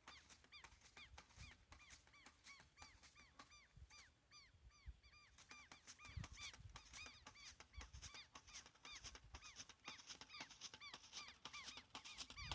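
Faint, rapid series of short chirping calls from a bird, several a second and briefly pausing about four seconds in, with light scattered clicks.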